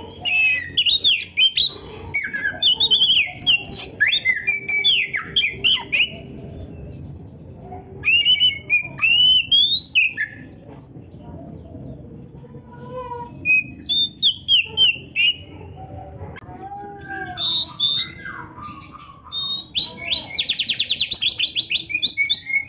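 Oriental magpie-robin (kacer) singing a loud, varied song: bursts of sweeping whistles and chattering phrases with short pauses between them, and a fast, evenly repeated trill near the end.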